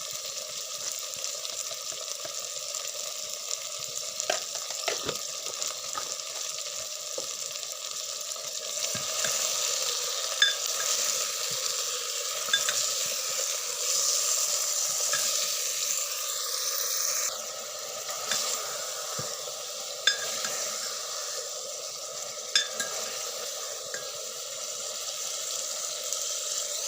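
Chicken pieces sizzling in hot oil with fried onions in a pan. The steady frying hiss is broken by a few sharp knocks of stirring against the pan.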